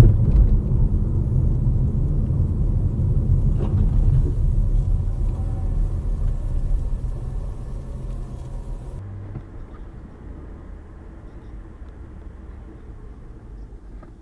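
Car driving noise picked up by a dashcam: a steady low rumble of engine and road. It drops to a quieter rumble about nine seconds in.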